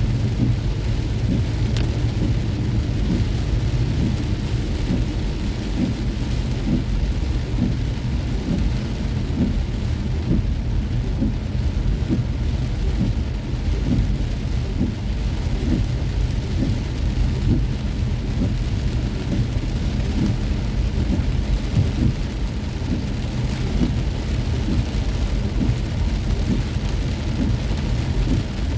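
Heavy rain drumming steadily on a moving car, dense drop hits over a continuous low rumble.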